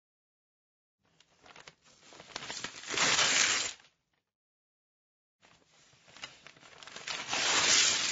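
Paper being torn, twice: each tear starts slowly with small crackles and builds into a loud rip. The first ends about four seconds in; the second is still going at the end.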